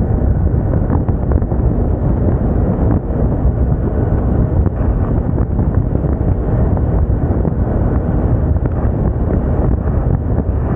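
Wind rushing over the microphone on a moving Moda Moca 110 scooter, a steady low rumble with the scooter's small engine running underneath.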